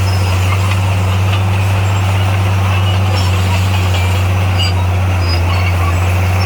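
Heavy diesel engine of construction equipment running steadily at constant speed, a deep even drone with no change in pitch or load.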